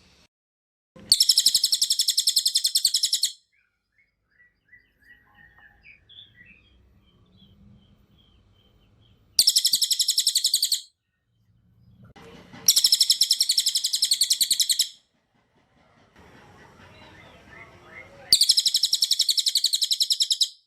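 A cililin songbird singing. It gives four loud bursts of rapid, high-pitched repeated notes, each lasting about two seconds, with soft scattered twitters in the gaps between them.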